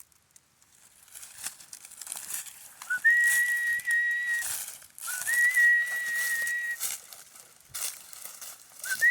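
A person whistling to call a dog: two long steady whistled notes, each opening with a quick upward scoop, and a third starting near the end. Dry leaves crunch underfoot between the whistles.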